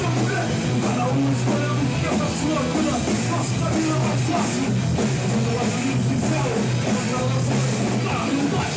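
Hardcore punk band playing live: distorted electric guitars, bass and drums in a dense, steady wall of sound.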